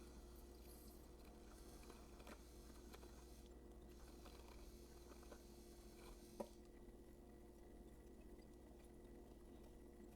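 Near silence: faint room tone with a steady low hum, broken by a single sharp click about six seconds in.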